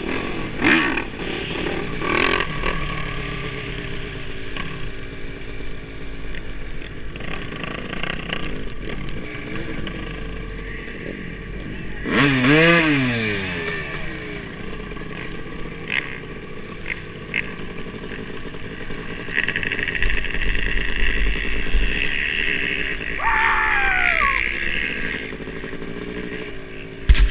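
Kawasaki KX500 single-cylinder two-stroke dirt bike engine running at low speed among other motorcycles. It revs up and back down once about twelve seconds in, and a falling engine whine follows near the end.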